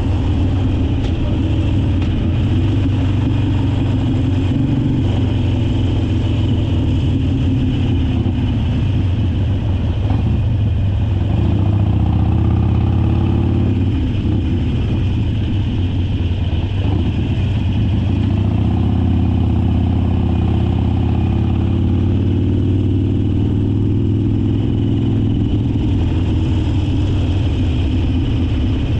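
Harley-Davidson Sportster Forty-Eight's 1200 cc V-twin running under way, its pitch climbing twice as the throttle opens and then easing back.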